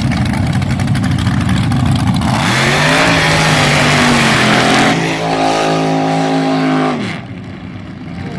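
Front-engine dragster's V8 running with a rough, lumpy idle, then going to full throttle about two seconds in with a sharp rise in pitch. It runs hard at high revs and cuts off sharply about seven seconds in as the throttle is lifted.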